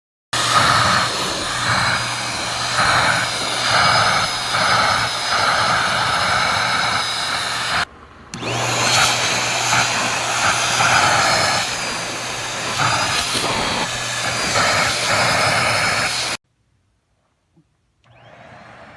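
Deerma handheld stick vacuum cleaner running: a steady motor hum with a thin high whine, the suction noise swelling and easing as it is worked. The sound cuts off abruptly about eight seconds in, starts again, and stops dead near the end, followed by a much fainter hum.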